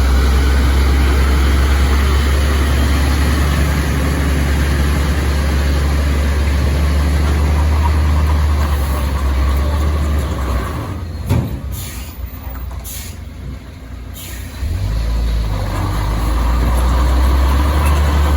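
A long heavy truck's diesel engine running with a loud low rumble. About eleven seconds in the engine drops away and a few short air-brake hisses are heard, before the engine picks up again near the end.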